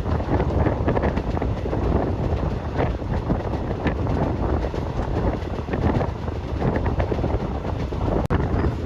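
Express passenger train running along the line, heard from on board: a steady rumble of the coach's wheels on the rails with many small clicks and rattles, and wind buffeting the microphone.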